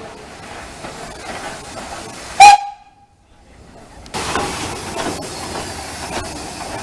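Steam locomotive: one very short, very loud whistle toot about two and a half seconds in, then after a brief lull a sudden, steady hiss of steam from about four seconds in.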